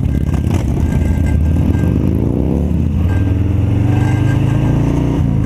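Harley-Davidson Fat Bob's V-twin engine running under way. The engine note dips and climbs again about halfway through, then pulls on steadily.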